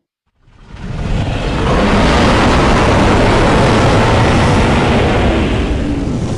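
Custom-made monster roar sound effect: a noisy, rumbling roar that swells in over about a second after a brief silence, holds steady, and eases slightly near the end.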